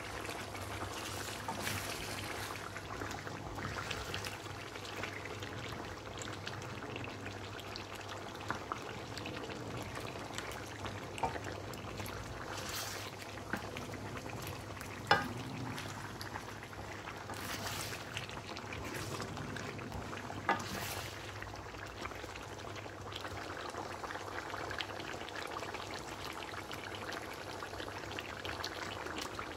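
Chicken pieces and halved tomatoes frying in hot oil on high heat: a steady sizzle, broken by a few sharp clicks, the loudest about halfway through.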